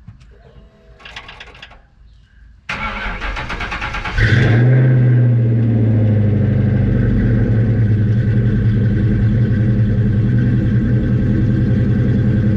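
1996 Ford Mustang GT's freshly swapped-in 4.6-litre V8 being started. The starter cranks for about a second and a half, the engine catches with a brief flare of revs, then settles into a steady idle.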